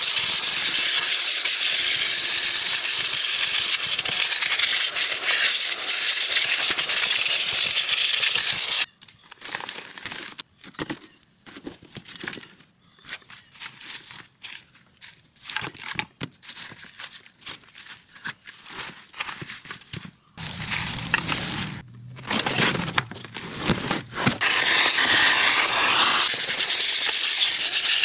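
Steady loud hiss of a detailing tool spraying or blowing, which cuts off about nine seconds in. Scattered clicks and knocks follow, then a louder, rougher stretch, and the hiss starts again near the end.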